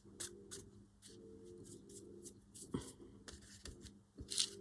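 Paper being handled at a craft desk: scattered light rustles and small taps, with a louder rustle about halfway through and another near the end, over a faint steady hum.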